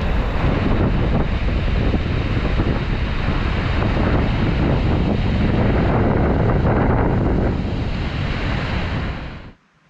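Loud, steady rushing of whitewater, with wind buffeting the microphone; it cuts off abruptly near the end.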